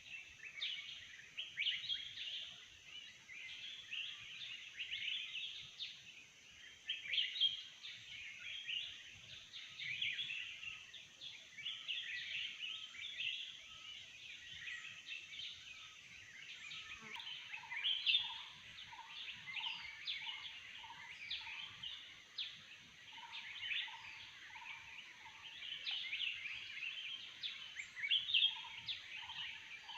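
Forest bird chorus: many birds chirping densely over a steady high-pitched tone. From a little past halfway, one bird repeats a short low note about twice a second.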